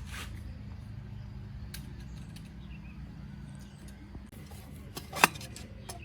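Scattered light clicks and clinks of metal tools and parts being handled, with one sharp, loud click about five seconds in, over a steady low hum.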